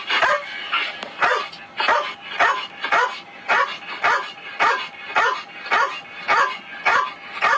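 A dog barking over and over in an even rhythm, just under two barks a second.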